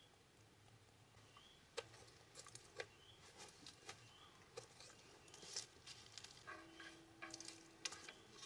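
Near-silent ambience: a small bird giving short rising chirps about once a second, with scattered light clicks and taps.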